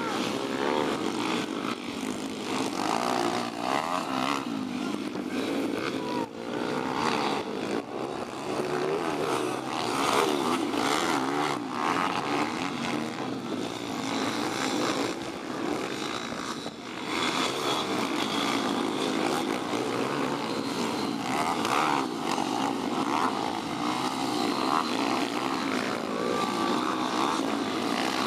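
Several pit bike engines racing at once, revving up and down, their pitches overlapping and wavering.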